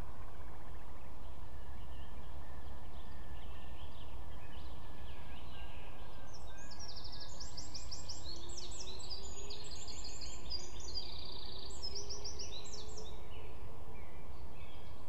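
A small bird sings a fast, high song of rapidly repeated notes, starting about six seconds in and lasting about seven seconds, over a steady low background rumble.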